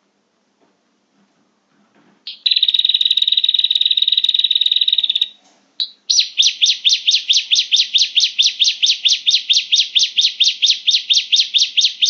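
Prinia (prenjak) song played as a bird-lure call. About two seconds in comes a fast, buzzy trill lasting about three seconds. After a short pause, a long series of sharp repeated notes follows at about five or six a second.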